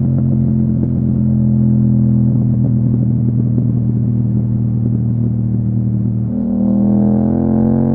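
Yamaha MT-07's parallel-twin engine running through an Akrapovič exhaust while the bike cruises at a steady pace. A little past six seconds in, the note breaks briefly and then climbs steadily as the bike accelerates.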